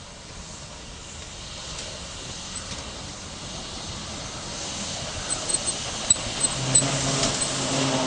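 A train approaching and growing steadily louder, with a rushing hiss. Short high-pitched squeaks come in about five seconds in, and a low steady hum joins near the end.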